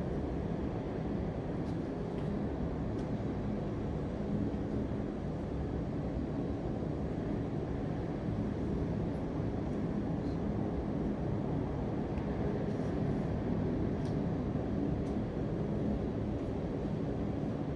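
Steady low rumble with a faint hum and a few faint ticks, without a break.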